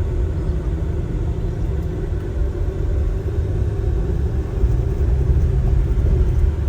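Steady low rumble of a tour coach's engine and tyres on the road, heard from inside the cabin.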